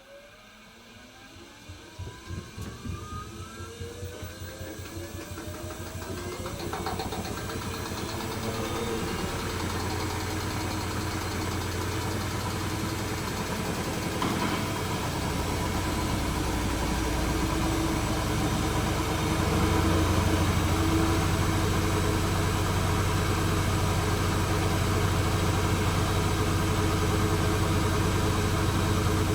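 Hoover H-Wash 300 Plus washing machine starting a spin: the motor's whine rises in pitch over the first several seconds with a rhythmic pulsing as the drum speeds up. The spin then grows louder and settles into a steady high-speed run with a low hum.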